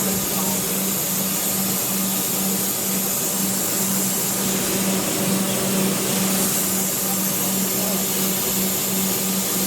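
Electric suburban train humming steadily: a constant low tone over an even hiss, without rising or falling.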